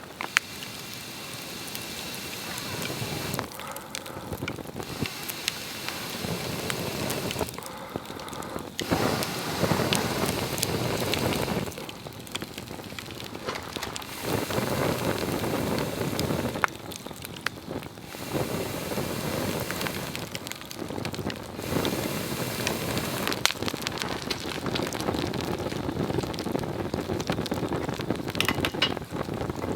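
Swedish torch log fire burning, a rushing flame noise that swells and dips every few seconds, with sharp crackles and pops from the wood.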